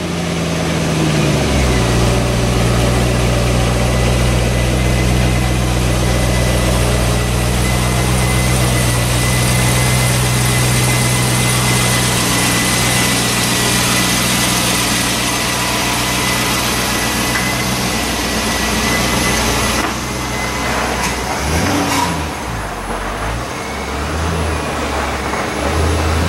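Stock C5 Corvette Z06's LS6 V8 running through its factory exhaust, a note the owner calls pretty quiet and not very impressive. The engine speed settles lower in the first couple of seconds and holds steady, then dips and turns uneven about twenty seconds in.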